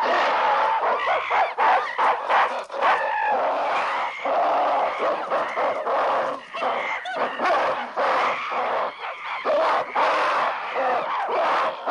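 A troop of apes crying out all at once: many overlapping, high-pitched shrieks and calls, densely packed and agitated, with no let-up.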